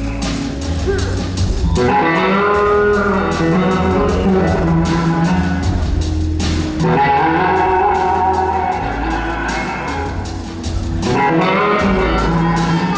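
Live blues-rock band playing: an electric guitar lead with gliding, bending notes over bass, drums and cymbals.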